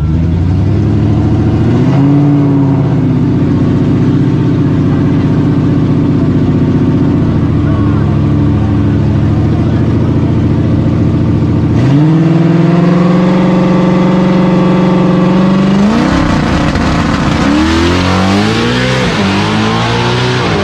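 Drag-racing street car engines running and revving. The pitch steps up about two seconds in and again about twelve seconds in, holding steady and high, then swings up and down repeatedly near the end.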